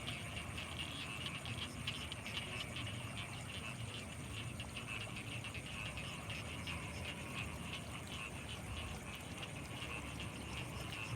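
Night chorus of frogs and insects in rice fields: many rapid overlapping calls at a mid-high pitch, over a steady high-pitched insect whine and a faint low rumble.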